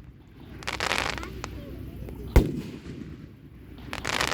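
Fireworks shells bursting overhead at close range: a stretch of crackling about a second in, a single sharp bang with a ringing echo a little past halfway, and more crackling near the end.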